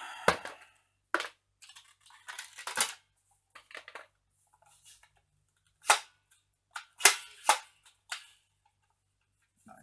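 Hard plastic toy blaster, a vintage Koosh Tornado X/2 ring launcher, being handled: a scattered series of about seven sharp plastic clicks and clacks with quiet gaps between them.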